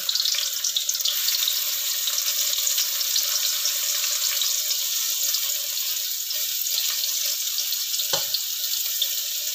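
Oil sizzling steadily in a wok as sliced mushrooms, garlic, shallots and dried shrimp fry, stirred with a spatula. A single knock about eight seconds in.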